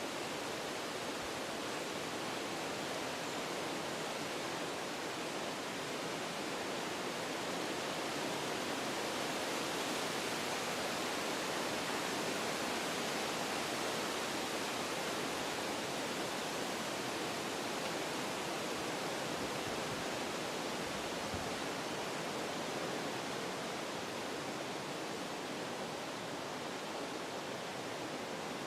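Wind blowing through forest trees, a steady rushing of leaves and branches that swells a little about a third of the way in and eases toward the end.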